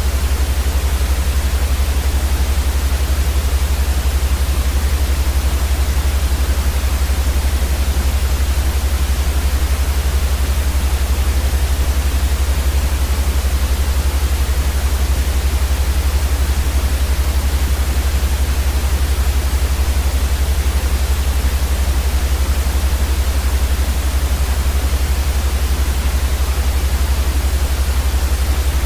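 Steady white noise for sleep: an even, unchanging hiss across the whole range with a stronger low rumble underneath.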